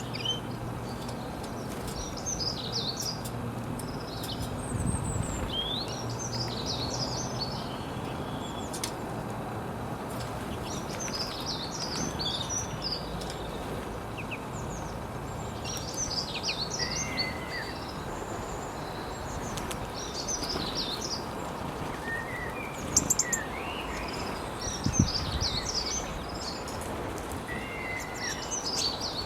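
Songbirds chirping in short twittering phrases, repeated every few seconds, over a steady background hiss. A couple of brief knocks come near the end.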